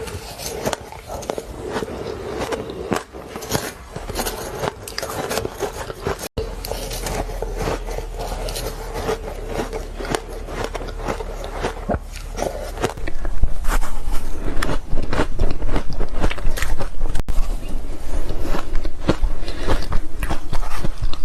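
A person biting and chewing ice close to the microphone, a dense run of irregular crisp crunches and crackles. It becomes much louder about two-thirds of the way through.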